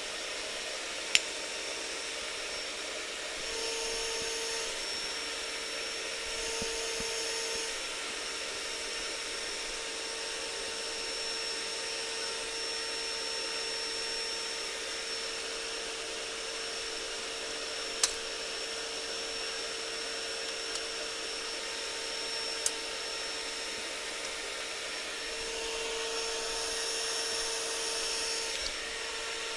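A small electric motor running with a steady whine, growing louder three times for a second or a few seconds, with three sharp clicks along the way.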